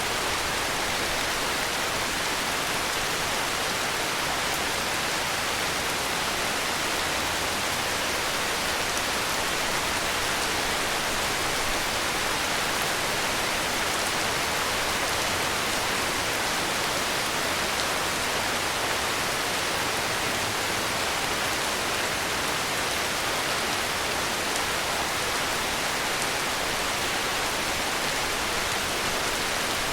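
Heavy rain falling as a steady, even hiss, with no thunder or sudden sounds.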